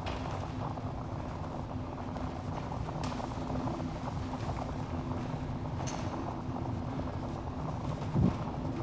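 Wood fire burning in a fireplace: a steady low rush of flames with a few sharp crackles and pops, and a louder low thump near the end.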